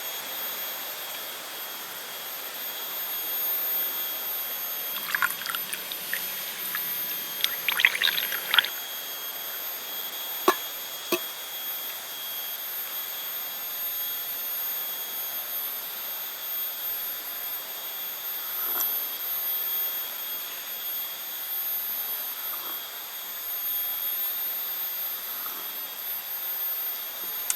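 Forest ambience: a steady high-pitched insect drone over an even hiss, with a few sharp clicks and taps about five to eleven seconds in.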